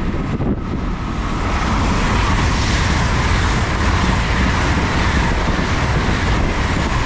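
LNER Class 800 Azuma train running through the station at speed without stopping: a loud, steady rush of wheel-on-rail and air noise that swells about a second and a half in. Wind buffets the microphone.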